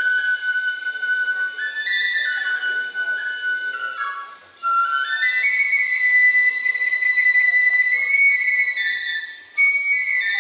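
Kagura fue, a Japanese transverse bamboo flute, playing a high solo melody of stepped held notes, with two brief breaks for breath, one about halfway through and one near the end.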